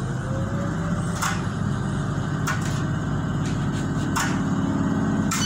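Tyne and Wear Metro train rolling slowly, heard from inside the carriage: a steady low rumble with a wheel clack every second or so, four in all, and a faint whine rising in pitch in the first second.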